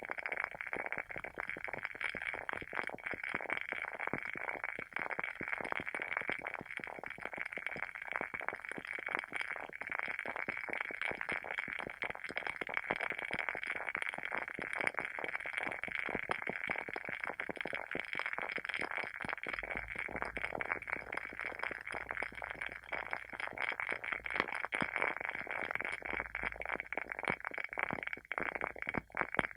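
WoodWick candle's wooden wick burning with a dense, continuous crackle of small pops.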